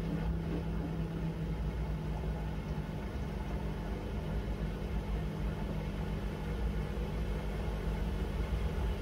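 Miele W1 front-loading washing machine running mid-cycle: a steady mechanical hum whose tone steps up slightly about a second and a half in.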